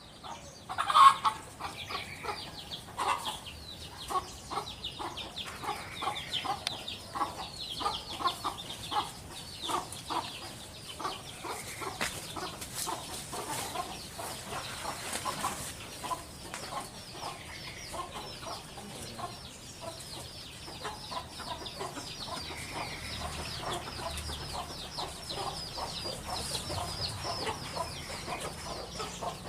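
Birds calling in a backyard: a steady run of short repeated calls, with dense higher chirping above them, and one louder call about a second in.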